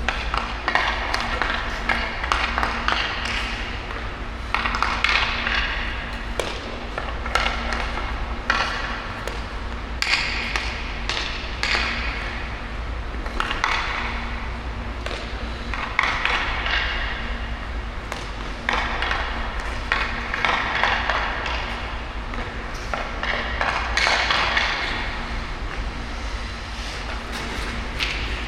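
Ice skate blades scraping and carving the ice in repeated strokes, each lasting a second or more, with sharp clicks and taps of a hockey stick on the puck and ice. A steady low hum runs underneath.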